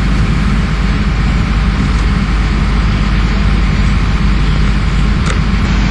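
Steady, loud road-vehicle noise with a deep rumble underneath.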